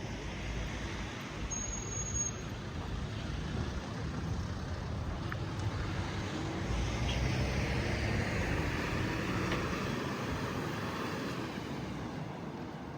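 Road traffic running steadily, with one vehicle growing louder and then fading about halfway through.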